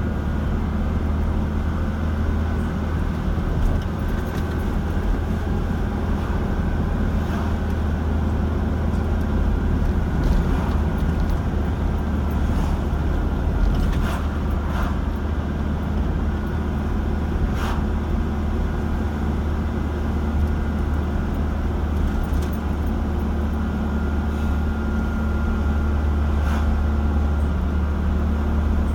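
Steady low rumble of a car driving at a constant pace, engine and tyre noise, with a few faint clicks about halfway through.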